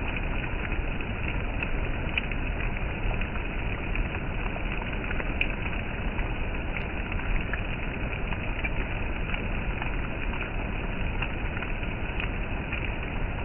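Steady rain, a continuous hiss with scattered small drop ticks.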